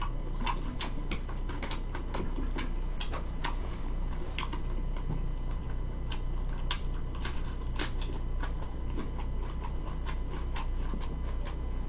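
A person chewing food: irregular crisp clicks and mouth smacks, a few a second, over a steady low hum.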